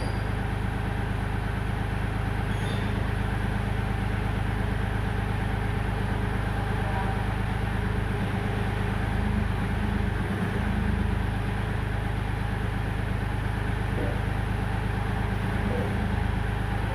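Kioti compact tractor's diesel engine running steadily.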